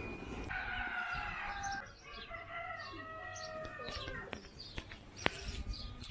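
A bird calling: one drawn-out call of a little over a second, then several shorter calls, with a few sharp clicks in the second half.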